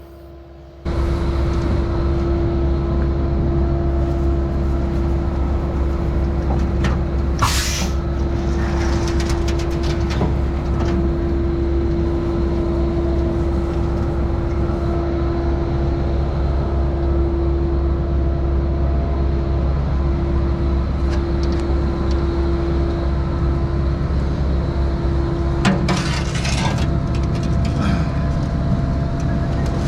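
Skid-steer-driven Mud Demon concrete pump running steadily: a low engine rumble under a constant hydraulic whine, coming in suddenly about a second in. Short bursts of hissing noise cut in about seven seconds in and again near the end.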